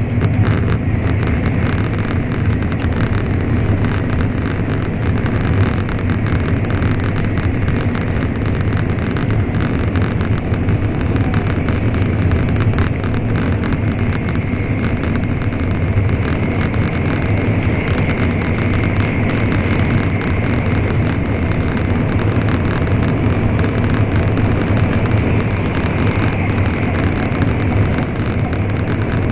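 Steady running noise heard inside the passenger cabin of an N700 series Shinkansen: a low rumble with a broad, even rushing hiss over it.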